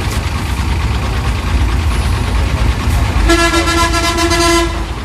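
Low, steady rumble of a heavy truck engine and road traffic, with one long blast of a vehicle horn about three seconds in that cuts off cleanly after about a second and a half.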